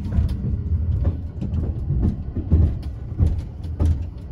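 Talgo passenger train running, heard from inside a sleeper compartment: a steady low rumble with irregular clicks and knocks over it.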